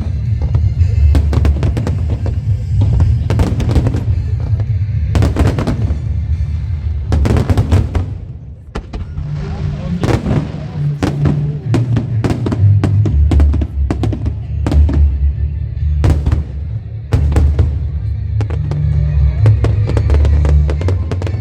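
Fireworks bursting and crackling in quick succession over loud music with a heavy bass line. The bangs thin out briefly about eight seconds in, then resume.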